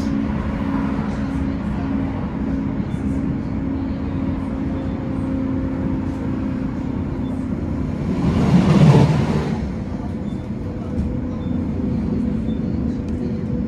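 Tram running between stops, heard from inside the car: a steady rumble with a low hum. About eight seconds in, a rush of noise swells and fades over about two seconds.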